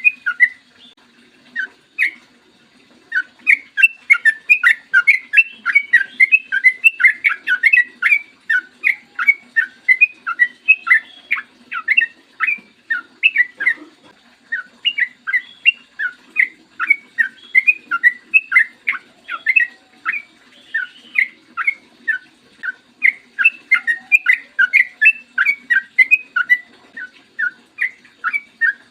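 A trucukan (yellow-vented bulbul) singing long, fast runs of short, bubbly notes, several a second. The song breaks off briefly about a second in and again around the middle.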